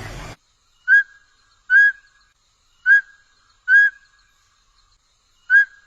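A bird's short whistled call, one clear note with a slight upturn at the end, given five times at uneven intervals of roughly a second.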